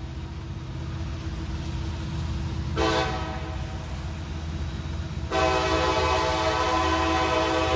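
Diesel locomotive air horn over the low rumble of the moving train: a short blast about three seconds in, then a long blast that begins a couple of seconds later and holds. Together with the long blast just before, this is the pattern of a grade-crossing signal.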